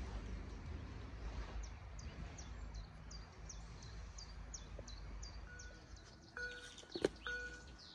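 Low rumble of a train fading away. Over it come short, high, falling chirps repeated about three times a second from a bird. About five and a half seconds in, a steady pulsed tone starts and repeats, and a sharp click comes near the end.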